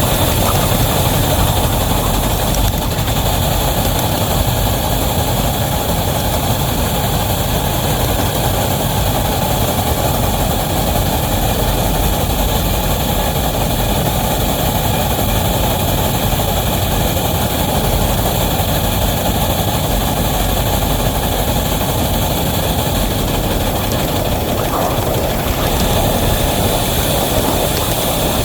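Wabash locomotive #713, a steam engine, working steadily under a heavy train, a continuous heavy running noise with no separate exhaust beats standing out.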